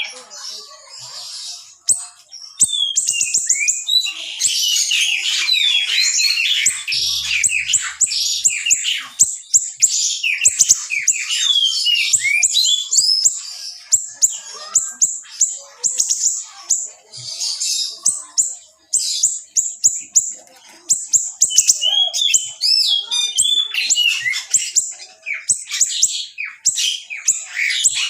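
A small songbird, the siri kecil kept by Indonesian bird-keepers, singing a dense, fast stream of sharp high chirps, clicks and quick pitch slides with hardly a break. It is recorded for use as masteran, a song model for training pet birds.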